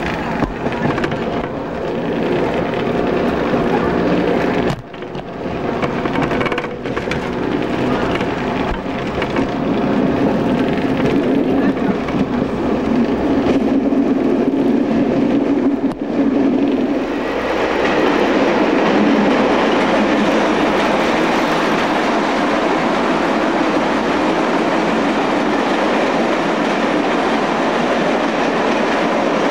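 Running noise of a diesel multiple unit heard from on board: engine and wheels on the rails, a steady rumble that turns louder and fuller a little over halfway through.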